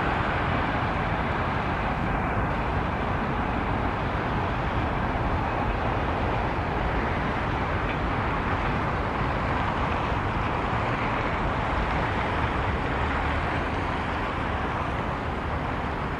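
Passenger train rolling away over the rails: a steady wheel-on-rail rumble that fades slightly toward the end.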